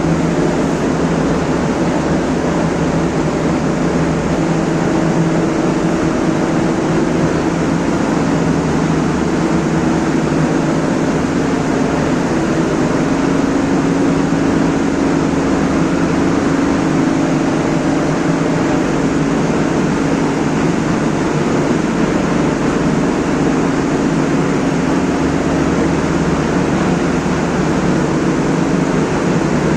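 Steady, loud machine-like noise with a low hum that does not change.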